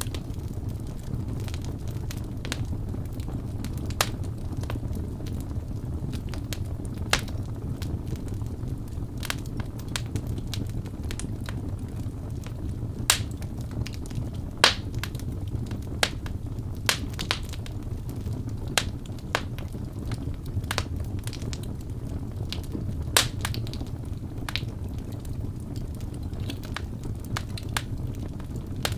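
Wood fire burning: a steady low rumble of flames with irregular sharp crackles and pops, a few louder snaps scattered through.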